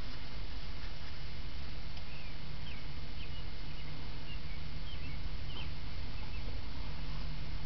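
1977 American Standard Plebe toilet with water running steadily, most likely the tank and bowl refilling after the flush. Faint short squeaky chirps come now and then over the rush.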